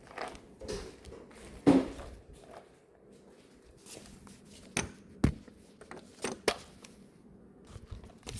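A few scattered sharp knocks and clicks, four of them in the second half, with a short falling vocal sound about two seconds in.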